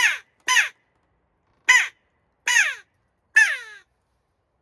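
Hand-blown crow call, built for hooded crow, blown to imitate a jackdaw: five short calls at uneven gaps, each falling in pitch. The imitation is close to a jackdaw's call but not quite as good.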